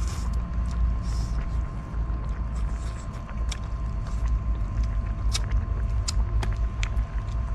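Steady low wind rumble on the microphone, with scattered sharp crackles and pops, typical of a wood fire burning.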